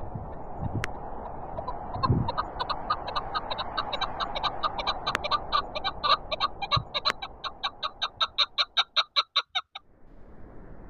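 Chukar partridge calling a rapid run of short notes, about four a second, that stops suddenly near the end. A steady wind noise runs underneath.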